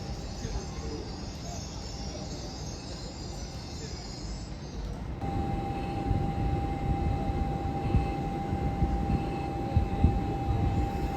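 A train at a railway station: a low rumble with hiss, which about five seconds in changes abruptly to a louder rumble carrying a steady whine, with a few sharp knocks.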